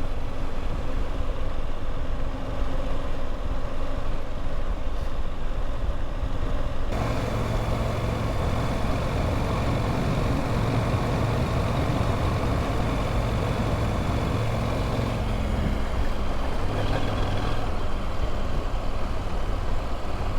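Motorcycle engine running steadily on the move. The sound changes abruptly about seven seconds in, and the engine note shifts again near the end.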